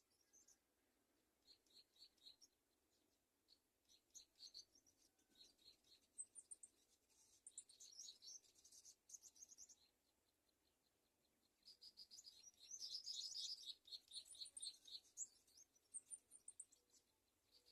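Birds calling in quick series of short, high-pitched chirping notes. The calls come in bursts, with several voices overlapping about three-quarters of the way through.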